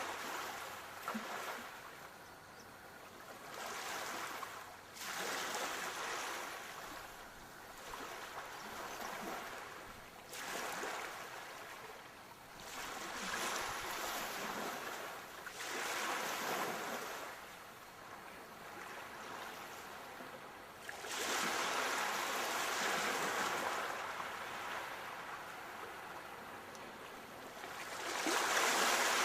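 Sea waves breaking and washing in, the surf swelling and falling away every few seconds, with a longer, louder surge about three quarters through and another near the end.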